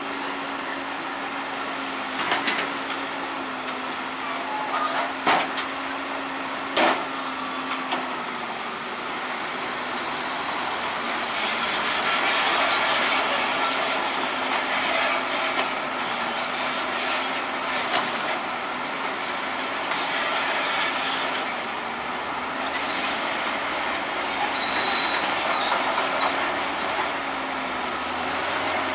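Heavy diesel earthmoving machinery running steadily, with a few sharp metallic clanks in the first seven seconds. A louder high-pitched hiss and squeal comes in about ten seconds in and lasts several seconds.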